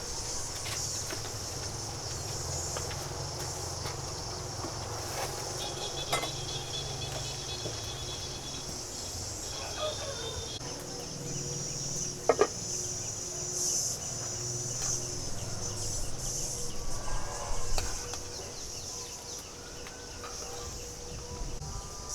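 Rural outdoor ambience: a steady high insect drone, with scattered clicks and knocks and a few short animal calls near the end.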